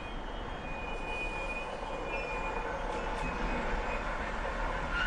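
Hamburg S-Bahn electric multiple unit approaching along the track, its running noise slowly growing louder, with short, faint high squeals.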